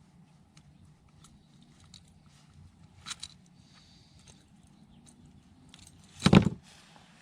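Light clicks and rattles of tackle and fish being handled in a bass boat, then a single loud thump about six seconds in, over a faint low hum.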